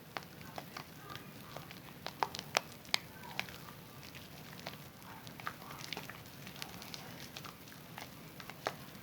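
Zest bar soap being lathered with water, a stream of irregular wet crackles and squelches from the suds, a few sharper pops about two to three seconds in.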